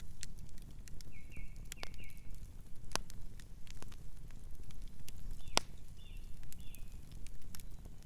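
Fire crackling with scattered sharp pops over a low steady rumble. A bird chirps in two short runs of high notes, about a second in and again past halfway.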